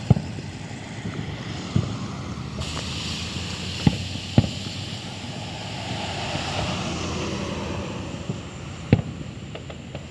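Firework going off: a hissing spray starts suddenly about two and a half seconds in and runs for about five seconds, with a few sharp pops scattered through.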